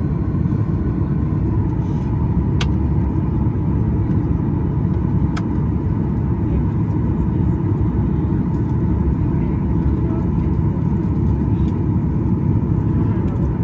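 Cabin noise inside a Boeing 737-800: a loud, steady rumble of the CFM56-7B turbofan engines and airflow, with a faint steady tone under it.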